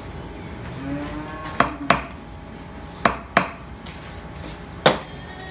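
Metal parts from a John Deere 2030 hydraulic pump clinking as they are handled and set down during teardown: five sharp metallic clinks, two close pairs and then a single one near the end.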